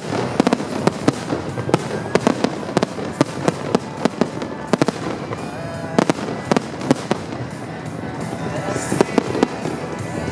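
Fireworks display: a rapid, irregular string of sharp bangs from bursting shells, several a second, with music playing underneath.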